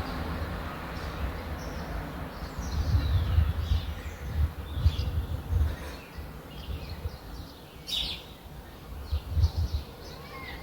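Small birds chirping with short, quick call notes, one louder chirp about eight seconds in, over a steady low rumble that eases after about six seconds.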